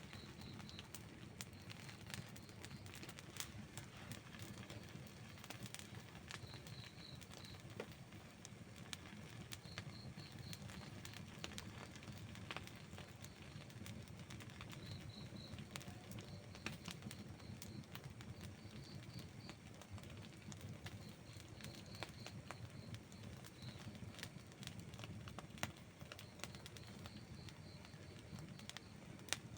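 Wood campfire burning, with frequent small crackles and pops over a low, steady rush of flame. A faint high chirp comes in short groups of three to five pulses, again and again.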